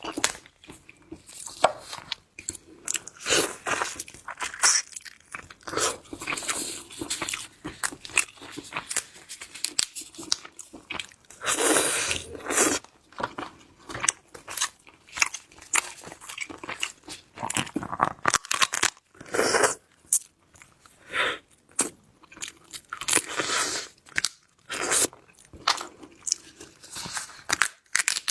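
Close-up chewing and crunching of shellfish, most likely mantis shrimp: irregular sharp cracks of shell and wet chewing. There is a longer, louder crunch about twelve seconds in.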